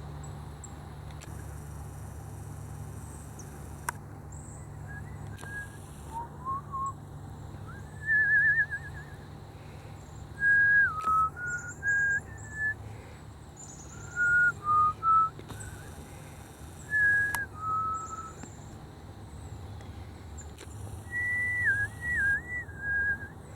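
A person whistling a string of short, clear notes that hold, step and slide in pitch, with a warbling trill about eight seconds in. Faint high bird chirps can be heard behind it.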